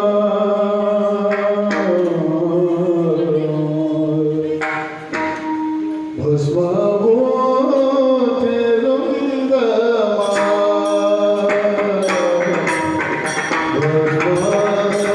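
Male devotional singing of a Marathi kirtan tune, long held melodic lines over sustained harmonium-like accompaniment, with occasional drum strokes that grow more frequent in the second half.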